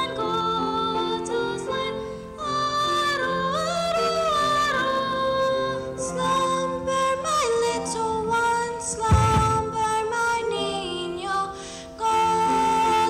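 A junior high school choir singing a slow piece, holding long notes in several parts and moving smoothly between pitches. A single low thump sounds about nine seconds in.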